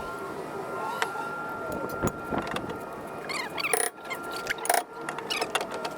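Metal hand tools clicking and clinking in brake work on a car, with a few sharp knocks spaced about a second apart.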